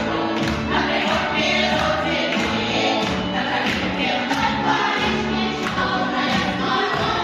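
Choir singing a song with a backing track that has a steady beat.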